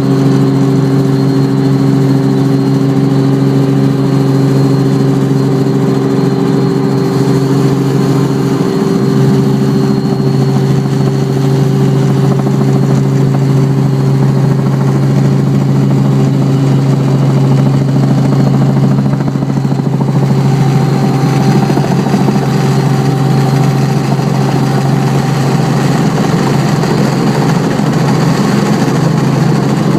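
Helicopter running steadily on its approach to landing: a loud, even hum with a strong low drone, which turns rougher and less even over the last few seconds.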